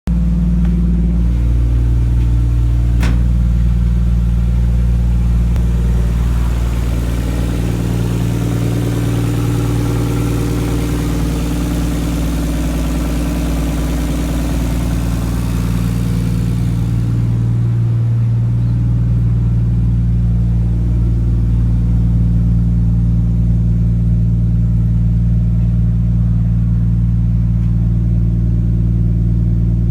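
Nissan RB25 2.5-litre straight-six idling steadily just after a cold start. There is a sharp click about three seconds in, and a hiss rides over the idle from roughly six to seventeen seconds before fading.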